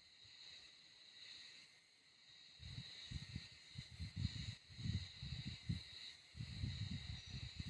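A steady, high chorus of insects, with irregular low rumbling bumps joining in from about two and a half seconds in.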